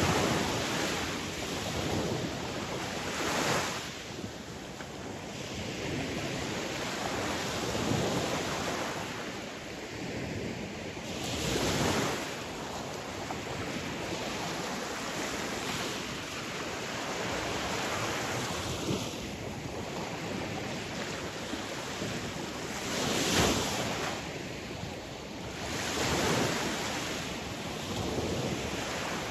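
Sea waves breaking on a shore, each wave a swell of surf rush every few seconds over a steady wash of water, with some wind noise.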